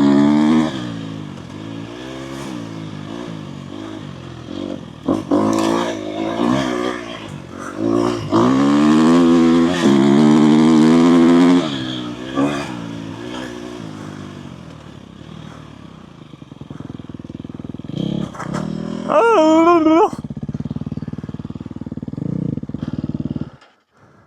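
Dirt bike engine revving up and down as it rides, pitch rising and falling through the gears, with one long loud pull about a third of the way in. It cuts off shortly before the end.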